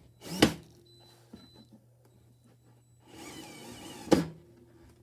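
Metal alarm control-panel cabinet being shifted against the wall while it is levelled: a sharp knock about half a second in, then about a second of scraping ending in a second sharp knock.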